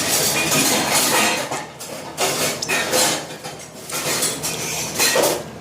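Dishes and cutlery clattering: a run of irregular clinks and knocks.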